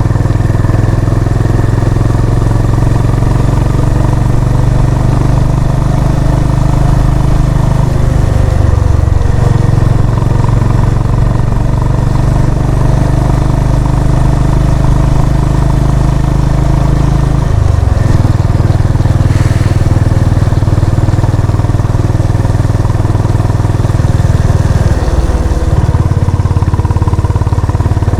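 Honda CB350 RS's air-cooled single-cylinder engine running under way on a ride. The engine note is steady, and it breaks and shifts briefly three times: about 9, 17 and 25 seconds in.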